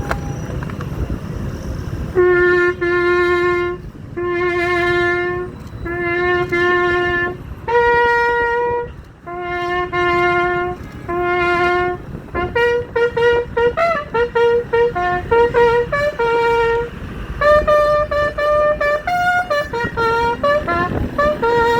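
A single brass horn sounding a ceremonial bugle call. It plays long held notes, then a quicker run of notes with slides from about twelve seconds in.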